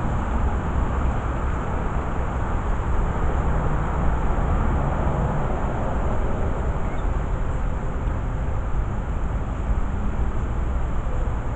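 Steady low outdoor rumble with a faint hum, unchanging throughout.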